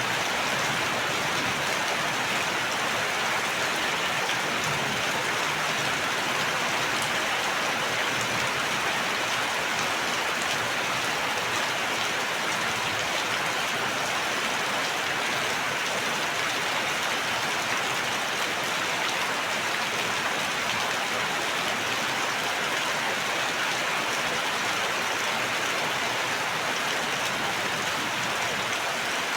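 Steady heavy rain falling, an even hiss of rain on surfaces that holds constant.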